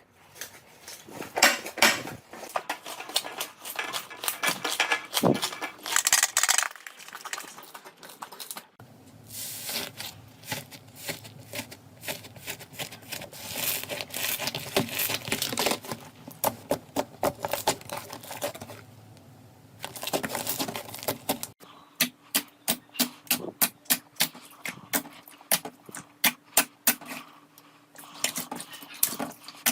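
Slime being squished and worked by hand, giving a dense run of sticky clicks, crackles and pops. The character of the clicking changes abruptly twice, about a third and about two thirds of the way through, as one slime gives way to another.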